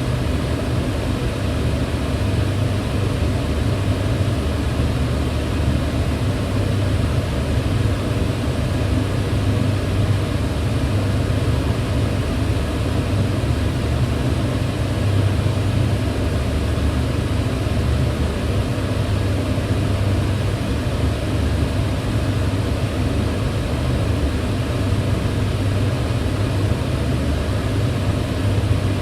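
Kitchen range hood fan running steadily: an even rush of air with a low hum underneath, unchanging throughout.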